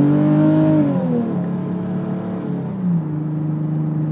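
Nissan 370Z's 3.7-litre V6 through a Fast Intentions exhaust with carbon-fibre cans and FI.ART test pipes, heard from inside the cabin under hard acceleration. The revs fall about a second in, then hold steadier, and drop once more near the end.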